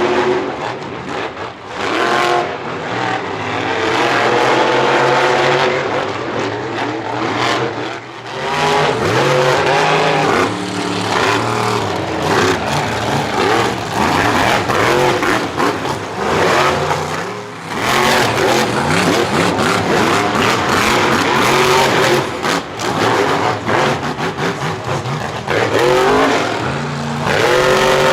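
Monster truck engines revving hard, their pitch rising and falling again and again, with abrupt changes every few seconds.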